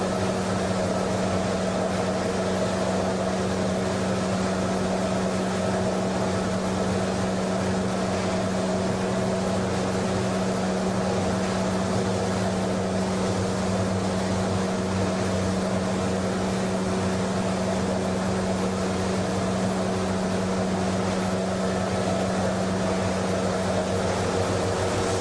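PE/PP plastic washing machinery running steadily: a constant mechanical hum with a strong low drone and several steady tones, unchanging throughout.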